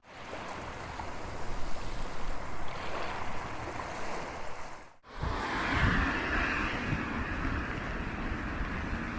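Strong gusty wind buffeting the microphone, with a rushing hiss of rough surf; the sound drops out briefly about five seconds in and resumes louder.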